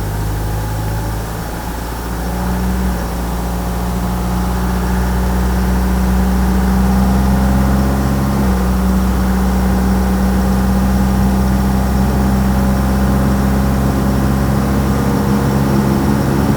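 Truck engine running as the truck drives: a steady low drone that grows louder over the first several seconds, its pitch stepping up slightly about three seconds in and again about eight seconds in.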